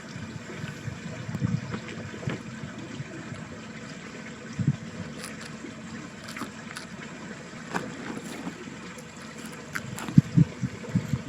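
Water running in a small ditch stream: a steady rush with irregular low gurgles and splashes, a cluster of louder ones near the end.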